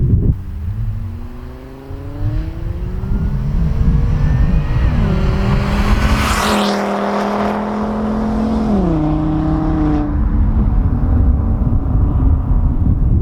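Volvo V70 2.5T's turbocharged inline-five, running through a catless downpipe and straight-pipe exhaust, accelerating with a rising pitch, then holding steady with two drops in pitch. Wind rumbles on the microphone throughout.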